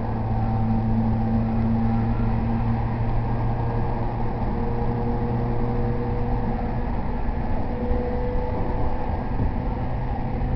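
JR East E231 series 0 commuter train running, heard from inside the car: a steady rumble of wheels on rail with a low, even hum.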